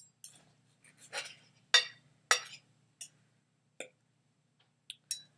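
Eating utensils clinking against a plate: a scattered series of short, sharp clinks, the two loudest close together about two seconds in.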